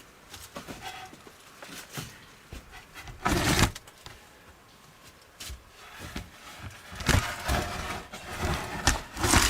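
Handling noise from a long wooden board carrying a camera being worked into a mine opening: scattered knocks and clicks, one loud scrape about three seconds in, and a run of scrapes and knocks over the last couple of seconds.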